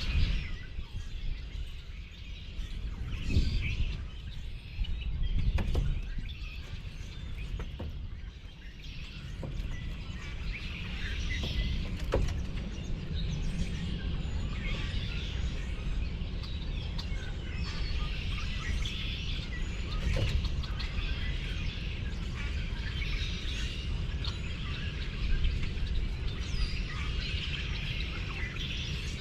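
Many small birds chirping and calling over a steady low rumble of outdoor background noise.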